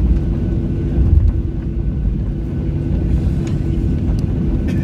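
Steady cabin noise inside a Boeing 737-800: a low rumble from the CFM56-7B engines and airflow, with a constant hum. A few light rattles from the cabin can be heard, and the rumble swells briefly about a second in.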